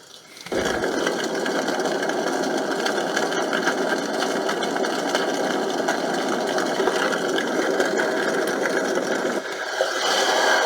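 A portable white noise machine's speaker playing one of its built-in sleep sounds: a steady, dense rushing noise that starts about half a second in. Near the end it changes to the next track, a babbling creek.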